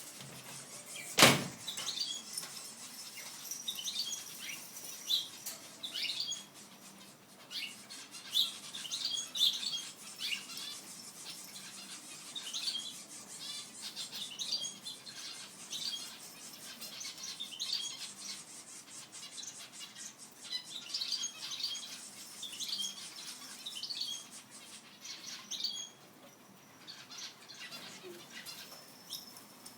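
Small birds chirping in short, high, repeated calls, with a single sharp knock about a second in.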